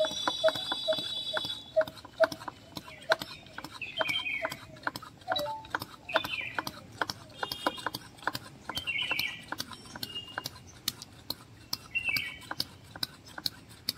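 Birds calling: a short falling chirp phrase repeated about every two to three seconds, with a high twittering in the first two seconds and a low note repeated about three times a second over the first few seconds. Many sharp clicks run underneath.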